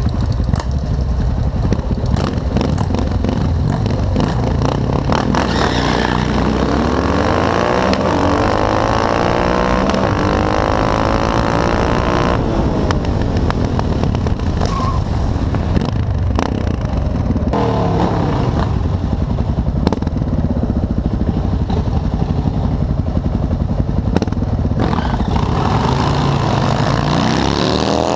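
Motorcycle engines running loud, their pitch climbing and falling several times as they rev and accelerate.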